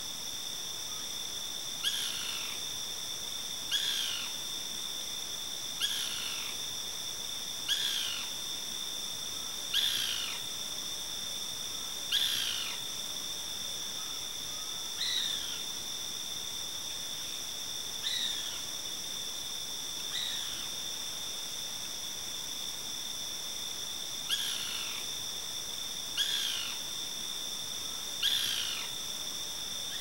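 A bird repeating a short whistled call that falls in pitch, about once every two seconds, with a brief pause about two-thirds of the way through. Under it runs a steady high-pitched chorus of crickets or other insects at dusk.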